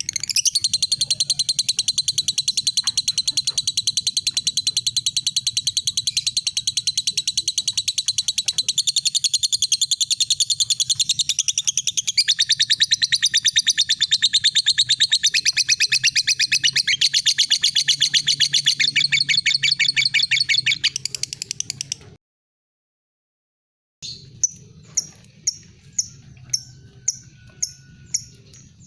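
Lovebird giving a long, unbroken, very rapid high chattering trill ("ngekek panjang") for about twenty seconds, which breaks off suddenly. After a short pause come single short, sharp ticking chirps ("ngetik"), about one or two a second.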